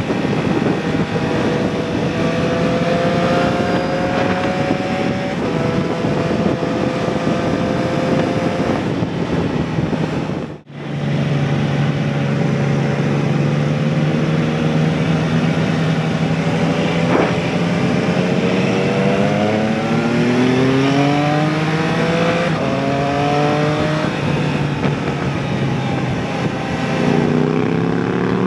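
Motorcycle engine heard from on the bike under acceleration: the pitch climbs in each gear and drops at each upshift, several times, over steady wind rush. The sound cuts out briefly about ten seconds in, and a further climb through the gears begins near the end.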